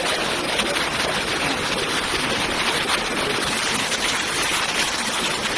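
Fast-flowing floodwater rushing past in a steady, unbroken noise.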